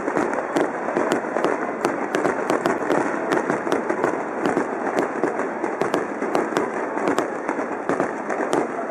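Aerial fireworks shells bursting in quick succession: a dense, irregular run of sharp bangs, several a second, over a continuous rumbling din.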